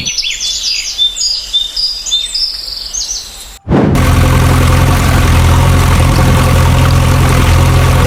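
Birds chirping in short high calls for about three and a half seconds, then an abrupt cut into a heavy engine idling with a steady low drone.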